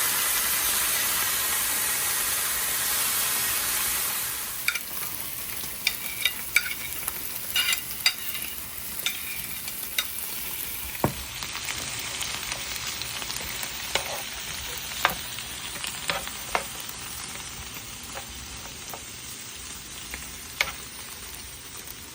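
Thin-sliced steak frying in butter and garlic, with a loud, steady sizzle that drops off about four seconds in. After that a utensil clicks and scrapes against the cooking surface many times as the meat is stirred.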